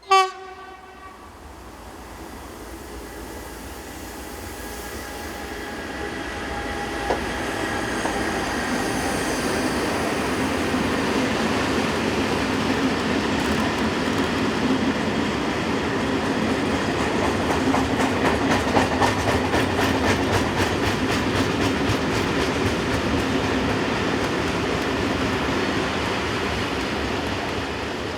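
Renfe Class 253 Traxx electric locomotive hauling a loaded steel freight train: a short horn blast at the start, then the train approaches and runs past. The rumble builds over several seconds, with a fast, regular clatter of wheels over the rail through the middle, and eases off near the end.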